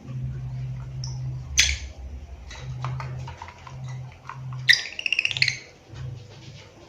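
Lovebird calling: one sharp shrill call about one and a half seconds in and a quick run of chirps near five seconds, over a low hum that comes and goes.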